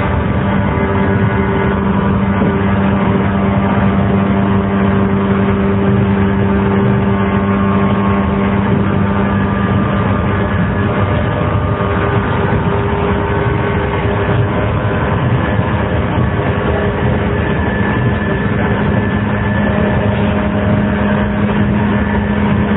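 JR 115-series electric multiple unit running at speed: the steady hum of its traction motors over the rumble of wheels on rail.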